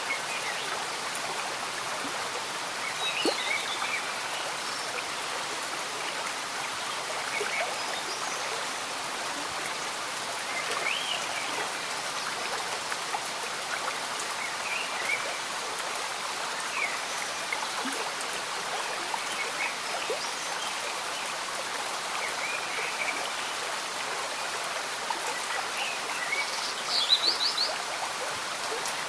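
Gentle rain falling and a slow stream bubbling, a steady wash of water noise. Short high chirps from small animals come and go over it, with a quick run of them near the end as the loudest moment.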